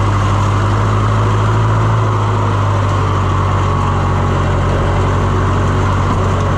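Farm tractor engine running steadily at a constant speed while the tractor drives along.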